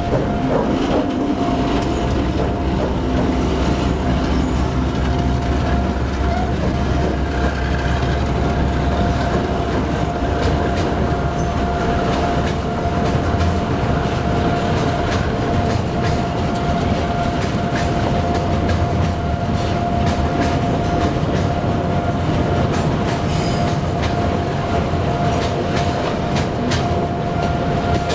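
Freight train rolling by, its wheels clattering over the rail joints over a steady low rumble, with a steady high-pitched whine held the whole time.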